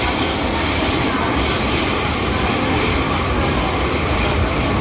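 First-generation MTR M-Train (1979 CM Stock) running at speed between stations, a steady rumble of wheels on rail and running gear, heard from inside the car.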